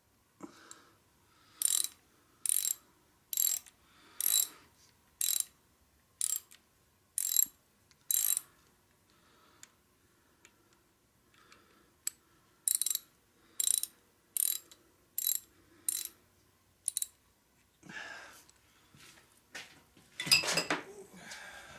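Ratchet clicking in short, even strokes, about one a second: a run of eight, a pause, then six more, as parts of the Kubota D662 diesel engine are tightened during reassembly. Near the end there are a few knocks of tools and parts being handled, and one louder metallic clatter.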